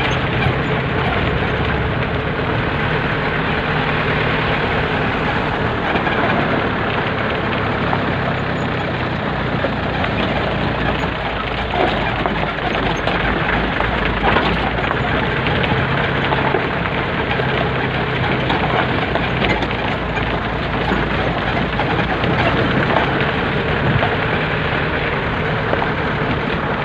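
A vehicle's engine running steadily under an even rush of road noise, with no clear change in speed.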